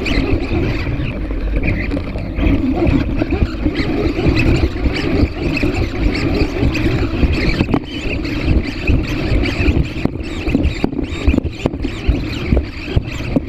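A small motor running steadily, with wind noise rushing and buffeting across the microphone and scattered short crackles.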